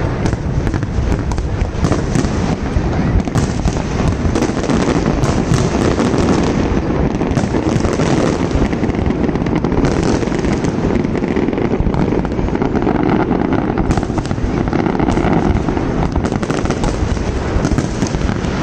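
A fireworks display going off continuously: dense, rapid bangs and crackling shells overlapping into a steady barrage.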